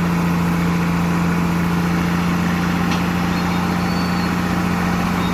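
Heavy truck engine running steadily at constant speed, a low even hum that does not rise or fall.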